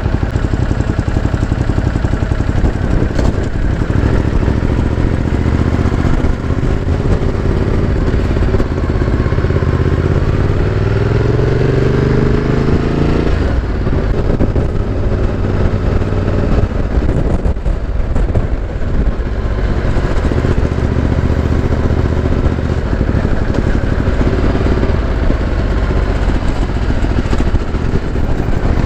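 Ducati Multistrada 1200S V-twin engine running under way, with wind noise on the microphone. Around the middle its pitch climbs steadily for several seconds as the bike accelerates, then drops suddenly, and it settles to steadier running.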